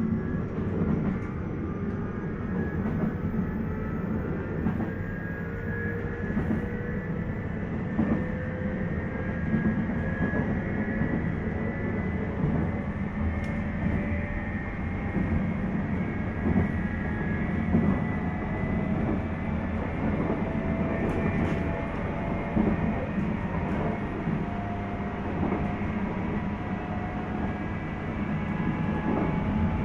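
On-board running sound of a JR East 719 series electric multiple unit, heard inside motor car KuMoHa 719-1. A steady rumble of wheels on rail runs under a motor and gear whine that climbs slowly in pitch as the train picks up speed. The uploader wonders whether this car makes an abnormal noise.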